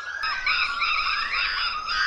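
Monkeys calling: a run of high, arching calls about twice a second, overlapped by rising squeals.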